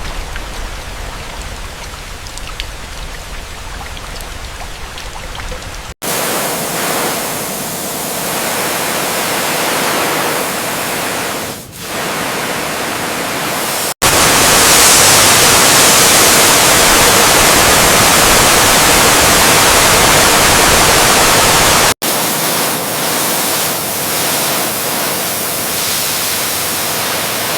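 Steady hiss of high-pressure water spray, in several clips cut together; the clip from about halfway through to three-quarters of the way is the loudest.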